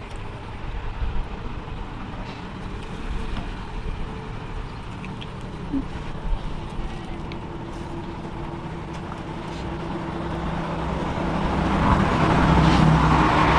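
A motor running with a steady low hum, growing louder over the last few seconds.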